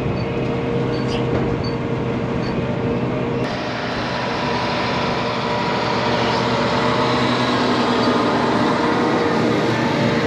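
Heavy diesel engine running steadily, its sound changing abruptly about three and a half seconds in.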